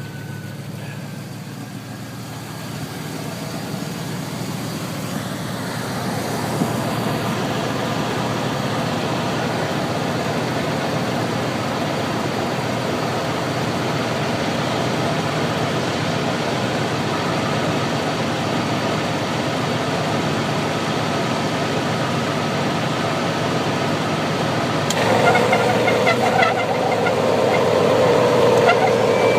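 A 1980 Pontiac Trans Am idling with its original, never-rebuilt air conditioning switched on. The steady engine hum is joined by a rush of blower air that grows over the first several seconds. About 25 seconds in, a louder rush of air sets in suddenly.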